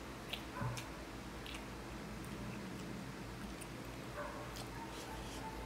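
Close-miked eating sounds: chewing and a few scattered wet mouth clicks and smacks from someone eating roast chicken and rice. A faint high whine comes in about four seconds in.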